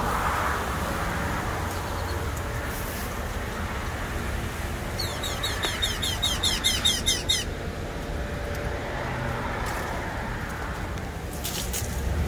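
A bird calls a quick run of about twenty short down-slurred high notes lasting some two and a half seconds, midway through. It sounds over a steady low rumble of road traffic.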